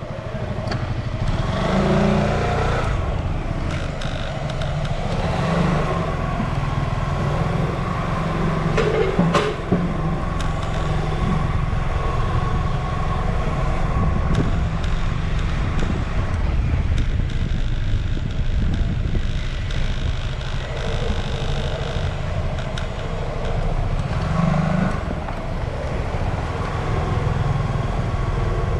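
Motorcycle running along the road, a steady engine drone under a constant low rumble of wind and road noise on the microphone, with a brief click about nine seconds in.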